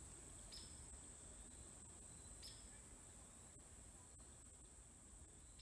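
Faint outdoor quiet with a steady high-pitched insect chorus, and two brief faint chirps about half a second and two and a half seconds in.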